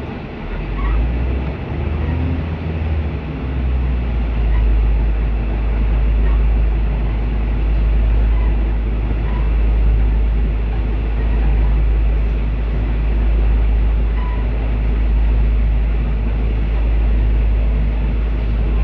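Moving passenger train heard from beside a carriage window: a steady heavy rumble that builds about a second in and again around three to four seconds in, then holds loud and even.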